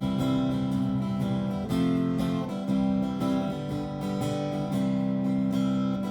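Acoustic guitar strumming chords, changing chord every second or so: the instrumental lead-in to a gospel song.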